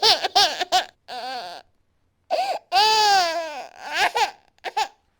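Baby crying hard in a string of short wails and one long, arching wail about three seconds in. The cries break off about five seconds in.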